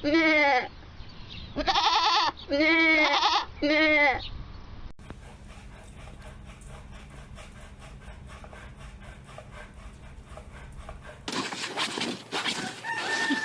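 A goat bleating loudly in four wavering calls over the first four seconds. The sound then cuts to a quiet stretch of background noise with faint ticking, and later to louder mixed clattering noises.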